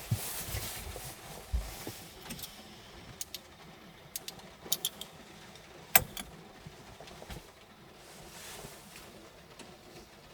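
Scattered light clicks and taps of small objects being handled. There is a louder knock at the start and another about six seconds in, over faint steady background noise.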